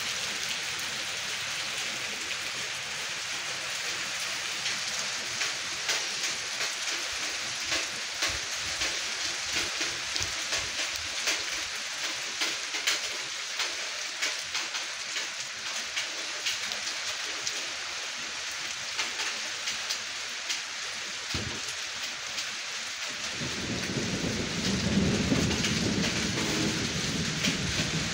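Steady rain falling, with many individual drops ticking through the hiss. Near the end a low rumble comes in and grows louder.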